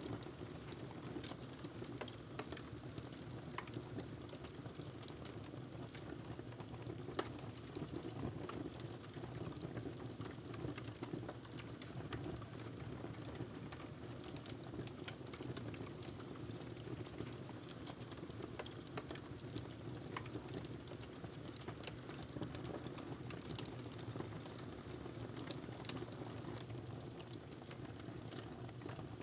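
Wood fire crackling in a fireplace: irregular sharp crackles and pops over a steady low rush of the flames, with one louder pop about seven seconds in.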